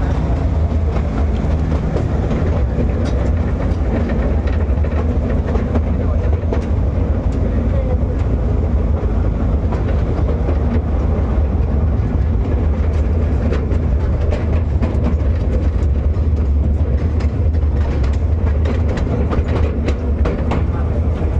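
Small ride-on museum train running along its track, heard from aboard: a steady low rumble with scattered clicks of the wheels on the rails.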